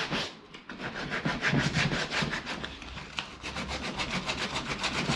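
Sandpaper scrubbed quickly back and forth over the plastic-welded repair on a polyethylene dirt bike fuel tank, a rhythmic scratching of about six strokes a second, knocking down the weld bumps.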